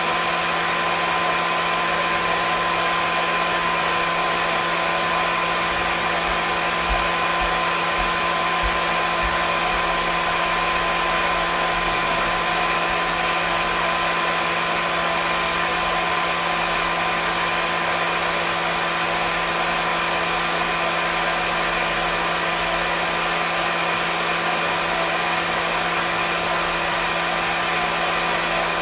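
Hair dryer running steadily: an even rush of airflow with a constant motor hum and whine, unchanging throughout.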